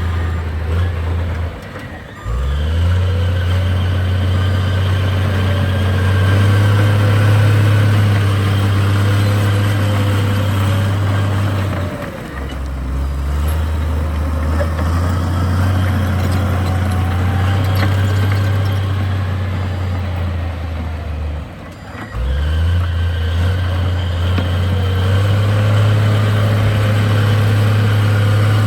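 Heavy diesel engine of earthmoving machinery working under load. It drops off briefly three times, about two, twelve and twenty-two seconds in, and each time its pitch climbs back up.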